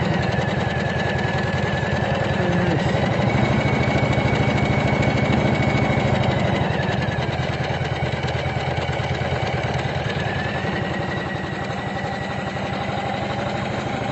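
Usha Janome Memory Craft computerized embroidery machine stitching out lettering at a steady speed, its needle running in a fast, even rhythm over a faint motor whine.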